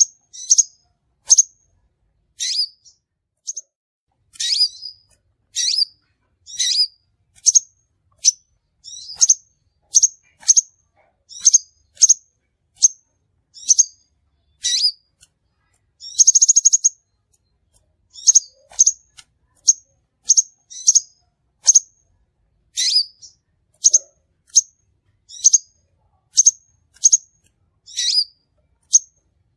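Crimson sunbird (sepah raja) calls used as a lure: a steady run of short, high chirps, about one or two a second, some dropping sharply in pitch, with a brief buzzy trill about halfway through.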